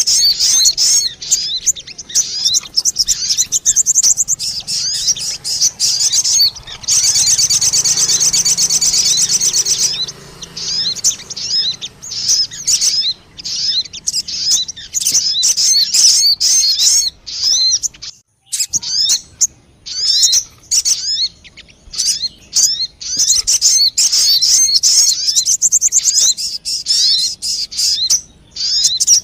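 Sogon bird lure call: rapid, high chirping notes repeated densely over and over, with a dense buzzing trill about seven seconds in that lasts some three seconds. There is a brief break about eighteen seconds in.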